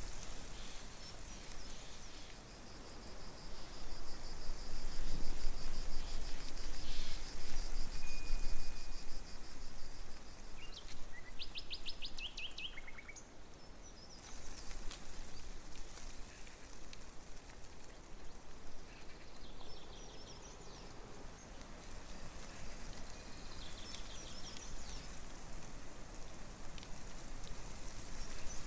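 Outdoor ambience with birds calling over a steady background hiss: a high, even trill lasting several seconds near the start, a short whistle, a fast rattling trill around the middle, and scattered chirps later.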